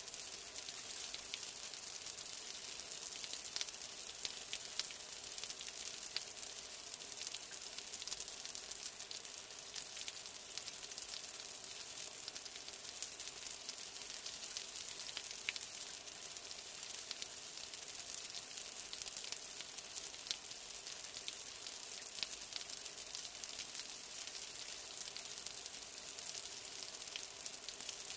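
Steady rain falling: a dense, even hiss with many sharp ticks of individual drops.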